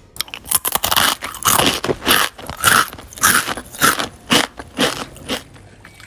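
A person biting and chewing crisp pickled striped cucumber close to the microphone: a run of loud, sharp crunches, about two or three a second, that stops near the end.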